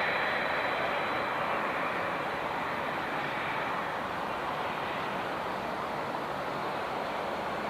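Jet airliner engines rushing, slowly fading as the aircraft draws away; a thin high whine dies out in the first second or two.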